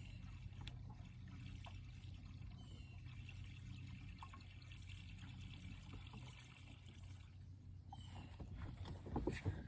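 Water lapping and trickling against a small fishing boat's hull over a low steady hum, with a few knocks near the end.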